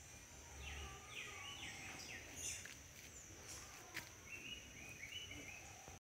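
Birds calling faintly: a run of short falling notes in the first half, then a quick series of short chirps near the end, over a steady high insect drone. A single click about four seconds in.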